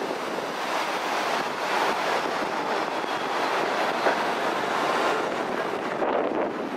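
Steady rushing noise from the open-air car of a moving train: the train rolling along its track, mixed with the whitewater rapids of the Arkansas River alongside and wind on the microphone.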